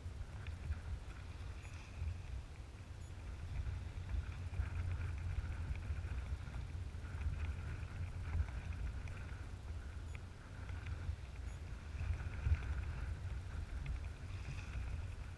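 Water sloshing and splashing around a kayak being paddled on open water, over a steady low rumble.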